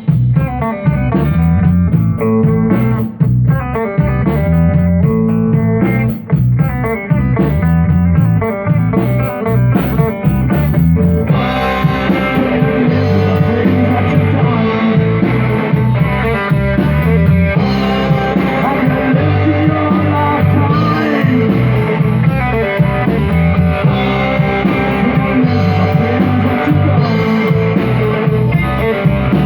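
A rock band playing live, with guitar and drum kit over a heavy bass line. About eleven seconds in the sound fills out and becomes brighter and fuller.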